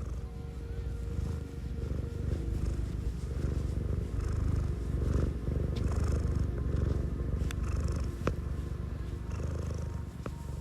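Domestic cat purring close up: a steady, rapidly pulsing low rumble that swells a little in the middle, with a few faint clicks.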